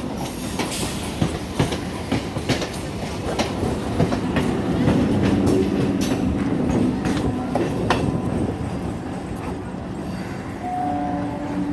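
A train running on its rails: a steady low rumble with irregular sharp clicks and clacks of the wheels, and a low pitched hum about four to seven seconds in.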